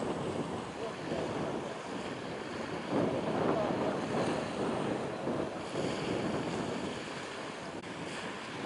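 Wind on the microphone mixed with the wash of waves: a steady, surging rush of noise with no engine tone standing out.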